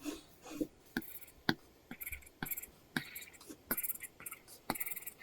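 Apple Pencil nib tapping and scratching on a paper-like matte film over an iPad screen in short, irregular drawing strokes. Many strokes begin with a sharp tap and end in a brief hissy scrape.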